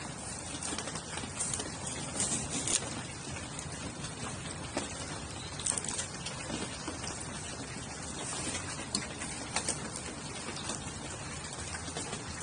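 Steady rain hiss with a wood campfire crackling in a fire stand: scattered sharp pops, with louder clusters about two seconds in, near the middle and around three quarters of the way through.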